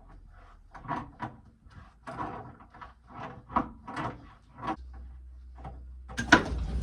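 A garden hose being unscrewed from a water heater's drain valve: a run of short, irregular creaks and scrapes from the threaded coupling, with one louder sharp knock near the end.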